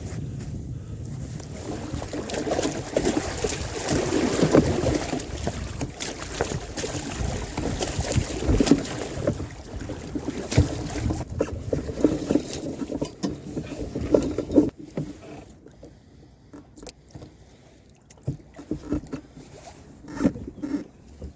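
Sailing canoe on the water: irregular rustling and splashing with scattered knocks and clicks from the hull and rigging, louder for the first two-thirds and then quieter with only occasional clicks.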